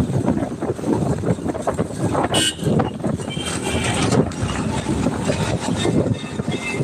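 Road noise from a moving vehicle: a continuous uneven rumble and rattle, with brief high-pitched tones about two to four seconds in.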